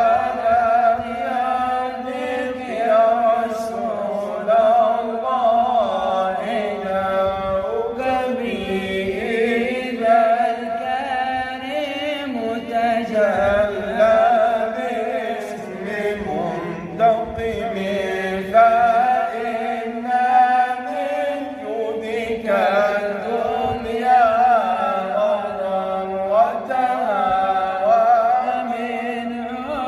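A man chanting an Arabic religious praise poem (inshad) in long, wavering, ornamented phrases, held on drawn-out syllables without clear words.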